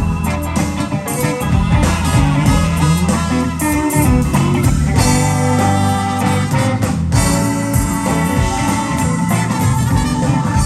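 Live blues band playing an instrumental passage between sung lines: guitar over bass notes and drums with a steady beat.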